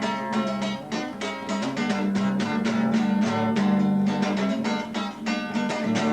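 Acoustic guitar strummed in a steady rhythm: an instrumental break between verses of a song, with no singing.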